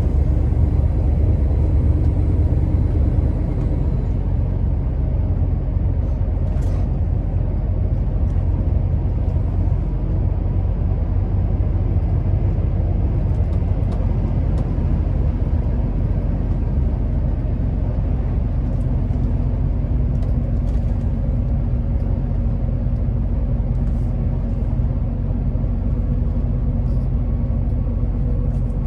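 Scania R650's 16-litre V8 diesel running steadily as the truck drives, a low even drone that eases slightly about four seconds in.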